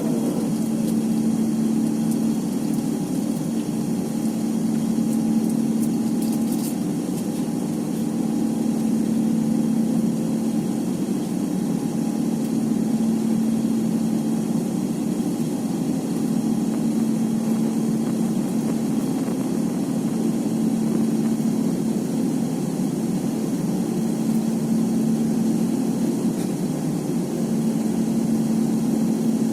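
Airbus A350-900's Rolls-Royce Trent XWB jet engines running steadily: a constant low hum with a steady drone underneath.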